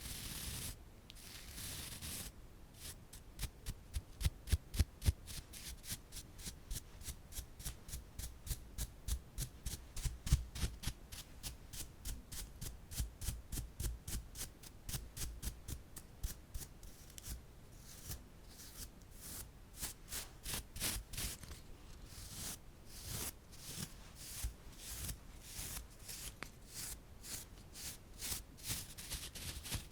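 Close-miked ASMR trigger sounds made by hand: a steady run of short, crisp scratching strokes, about four a second.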